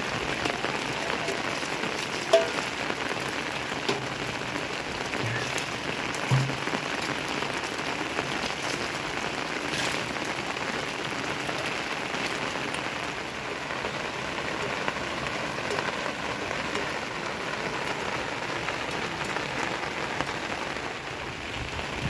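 Steady rain falling, with a few louder drops or taps landing in the first several seconds.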